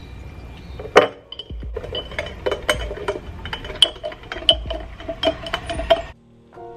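Tableware clinking: one sharp clink about a second in, then a run of quick, light clinks that stops abruptly near the end.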